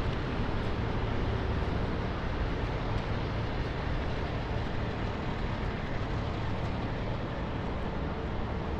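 Steady city street noise in the rain: a low rumble of traffic under an even hiss of rain and wet road.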